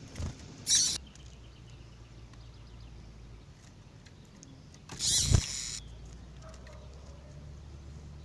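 Double-collared seedeaters (coleiro) giving brief sharp calls: one high call just under a second in, and a louder, harsher burst with a thump about five seconds in, over a low steady background hum.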